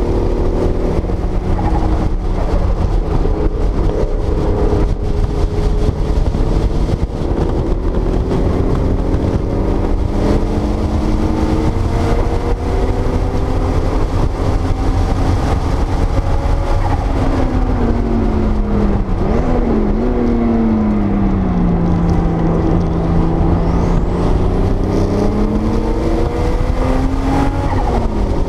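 1979 Porsche 930 Turbo's air-cooled turbocharged flat-six heard from inside the cabin at track speed, its pitch climbing and falling with the throttle. About two-thirds through it falls away with a quick blip, holds low, then climbs steadily before dropping again at the end.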